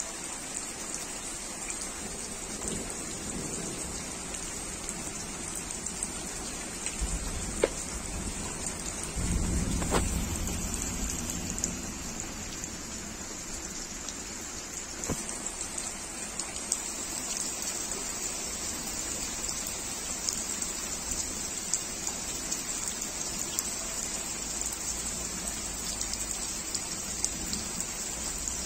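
Heavy rain falling steadily on leaves, wet paving and a brimming plastic pot, with a thin stream of water splashing into it. A low rumble of thunder builds about seven seconds in and is loudest around ten seconds.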